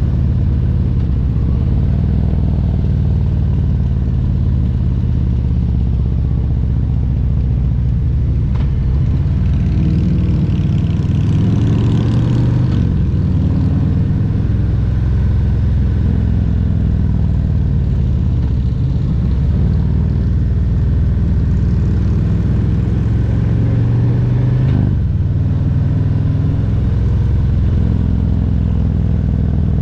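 Harley-Davidson Road Glide Special's Milwaukee-Eight 114 V-twin running on the road, a low steady engine note that rises and falls a little with the throttle. A brief rush of hiss comes about a third of the way in.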